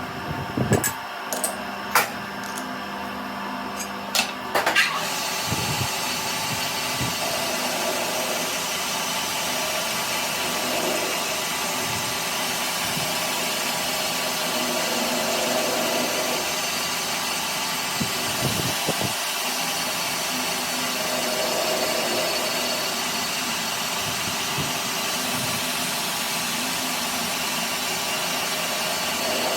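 A few sharp metal knocks in the first five seconds, then a power tool or machine tool running steadily for the rest of the time.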